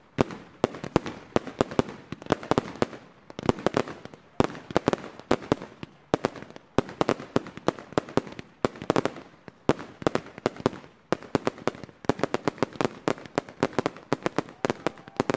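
Professional display fireworks going off in a dense barrage: a rapid, unbroken string of sharp bangs and crackling bursts, several reports a second.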